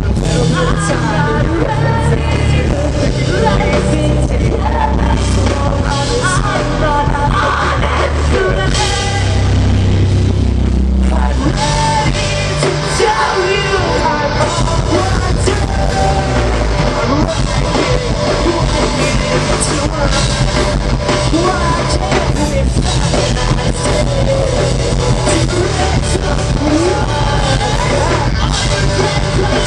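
Rock band playing live through a loud PA, with a vocalist singing and yelling over the band.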